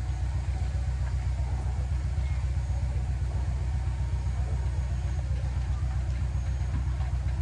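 Heavy diesel engine of construction machinery running steadily at idle, a deep, even throb.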